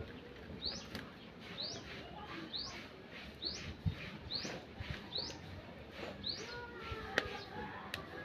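A bird calling a short, high, rising chirp over and over, about once a second, with a couple of sharp clicks near the end.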